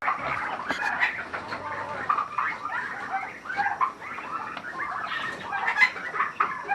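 Penned poultry chirping and cheeping over one another: a dense chatter of many short, high calls.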